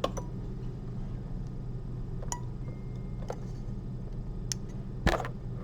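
A few sparse, sharp clicks and ticks of metal surgical instruments being handled during suturing, over a steady low hum. About five seconds in there is one louder click with a dull thump.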